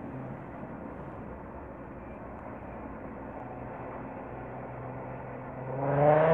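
Commuter train approaching a station platform, a steady running hum with faint whining tones that grows as it nears. Near the end a much louder tone made of several pitches swells up for about a second.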